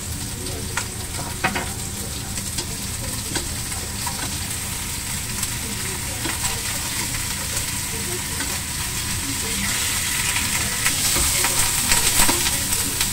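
A whole chicken frying in a little oil in a wok, sizzling steadily, with scattered clinks and scrapes of a metal spoon against the pan as it is turned and stirred. The sizzle grows louder near the end.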